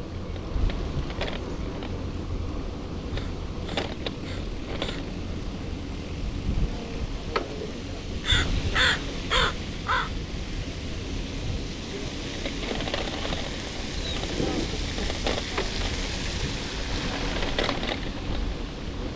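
A bird gives four short, harsh calls in quick succession about eight seconds in. Steady wind rumble on the microphone runs underneath.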